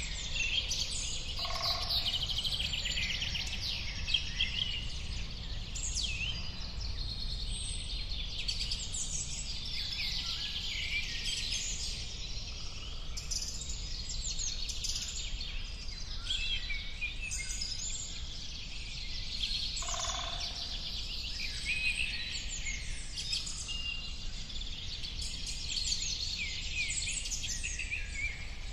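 A chorus of many birds chirping and trilling, calls overlapping without a break, over a steady low background rumble. Two short, lower-pitched calls stand out, one near the start and one about two-thirds of the way through.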